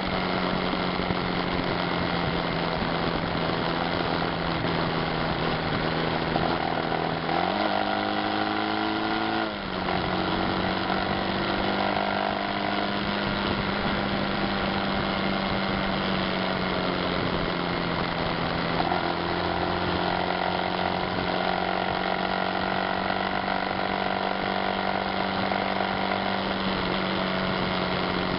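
Yamaha Fazer motorcycle engine running at a steady cruise, heard through wind rush on a camera mounted on the bike. About seven seconds in, the revs climb for roughly two seconds, then drop off briefly near ten seconds in before settling back to a steady drone.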